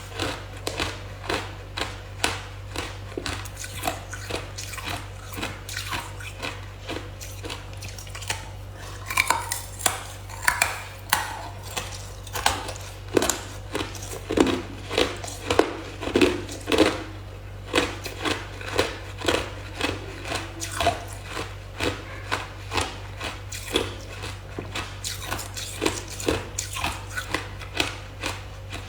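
A person biting and crunching hard ice with their teeth: a steady run of sharp crunches, one or two a second, over a steady low hum.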